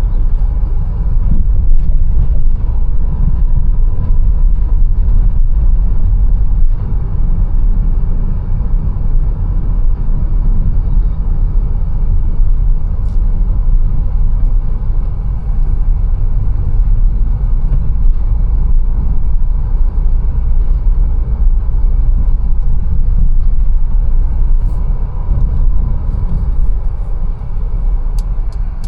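Mercedes-Benz A180 driving along: a steady, deep rumble of engine and road noise, with a faint thin whine and a few small clicks.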